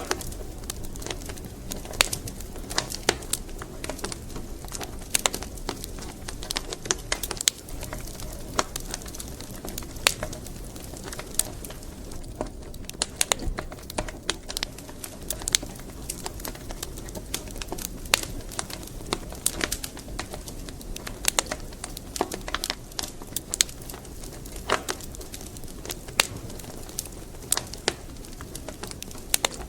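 Wood fire crackling in a fireplace: irregular sharp snaps and pops, several a second, over a steady low rush of burning logs.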